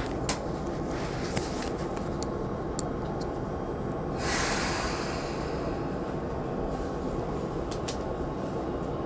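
Steady hum of a Tobu 20400-series commuter car standing at a station, heard from inside the car. A short hiss rises and fades about four seconds in, and there are a few faint clicks.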